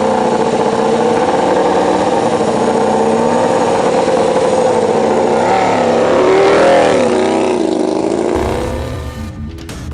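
MotoGP racing motorcycle engine running at high revs with a steady pitch. About two-thirds of the way in the pitch wavers down and up several times. Near the end the engine sound drops away and a few clicks take over.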